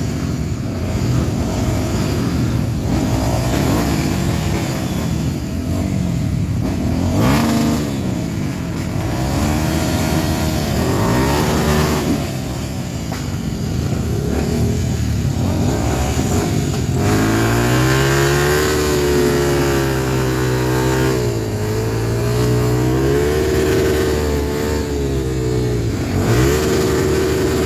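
Off-road trail motorcycle engines revving up and down, the pitch rising and falling with the throttle. Past the middle, one engine sounds strongest, held at high revs with brief drops.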